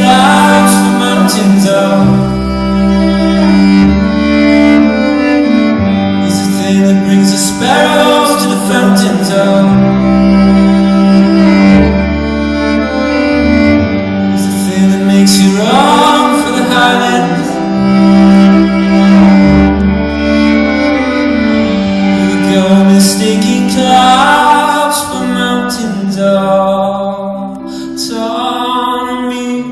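Live band music led by bowed violin over a steady low sustained note, with sweeping upward slides in pitch about every eight seconds. The music fades down over the last few seconds.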